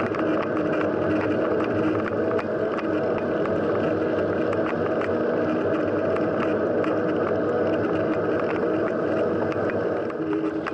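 Steady rush of wind and rolling tyre noise from a moving mountain bike, with small rattling clicks from the bike over rough ground.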